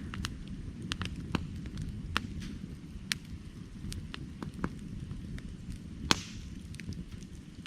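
Wood fire burning, with irregular sharp crackles and pops over a steady low rumble of the flames; one louder pop near the end.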